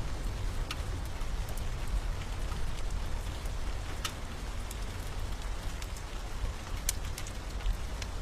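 Steady rain with a low rumble beneath it, and a few sharp, scattered crackles of a wood fire burning in a fireplace.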